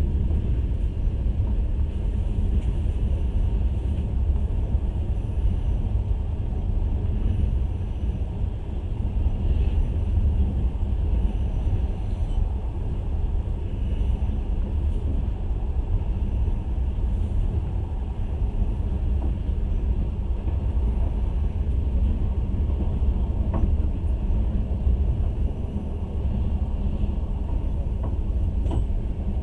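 Steady low rumble of a moving passenger train, heard from inside the carriage: the running noise of wheels on the rails, with a couple of faint clicks near the end.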